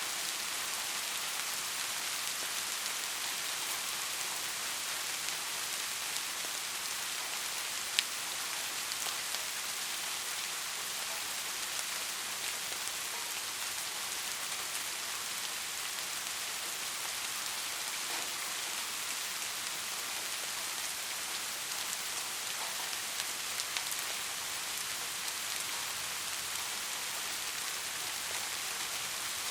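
Steady rain falling on a surface, a dense even hiss of drops. One sharp drop-like tick stands out about eight seconds in, and a few smaller ones come near the end.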